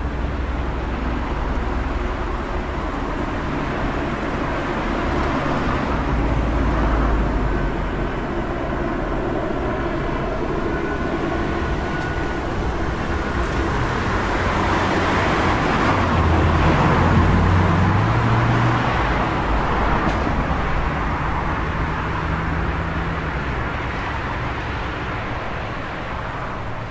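City street traffic: a steady wash of passing cars and engines, with one vehicle passing closer and louder about two-thirds of the way through.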